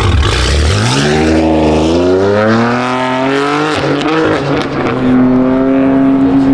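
Loud car engine accelerating: its pitch climbs steadily for about three seconds, breaks off near the middle, then settles into a steady higher drone.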